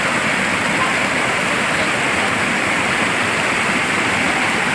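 Flowing river water rushing steadily, a loud even wash of sound.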